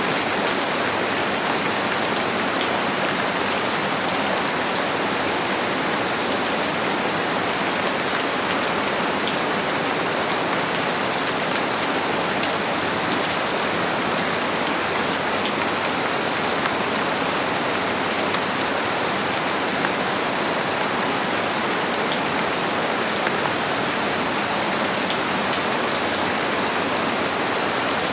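Steady heavy rain falling, with a constant hiss and many sharp drop ticks on a surface.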